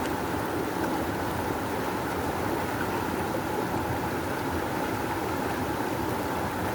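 Rushing river: fast water flowing over rocks in a steady, unbroken rush, strongest in the low-middle range.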